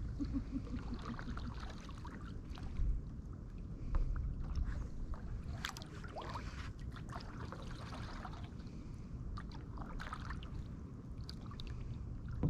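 Kayak paddling: small irregular splashes and drips from the paddle strokes in the water, over a steady low rumble of wind on the microphone.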